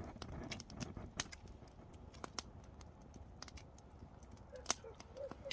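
Wood fire crackling and popping: irregular sharp pops, some spaced closely and some a second or more apart, over a low hiss.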